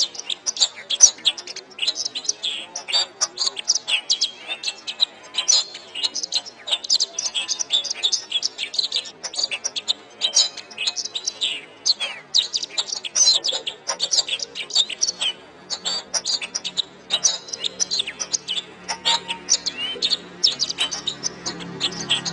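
Domestic canary singing a long, unbroken song of rapid chirps and rolling trills. In the last several seconds a low steady hum comes in underneath.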